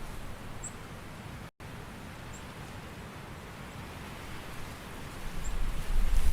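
Steady rain-and-wind ambience, an even hiss with a few faint high ticks. The sound cuts out for an instant about a second and a half in, and a low rumble swells near the end.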